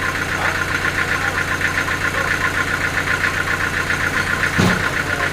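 An engine running steadily with a rapid, even pulse over a low hum, with a single thump just under five seconds in.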